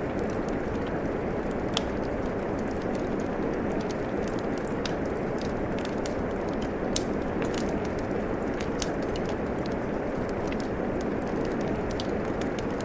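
Wood fire crackling, with scattered sharp pops (a louder one about a second and a half in and another about seven seconds in), over the steady rush of falling rain.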